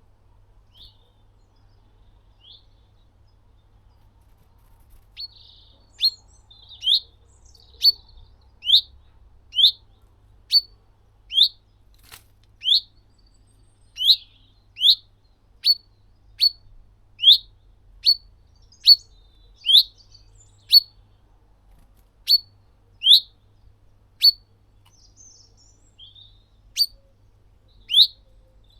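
A small bird calling one short rising chirp over and over, about once a second, from about five seconds in; two faint chirps come before it.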